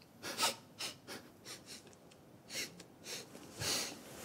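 A person breathing audibly in and out: several short, airy breaths.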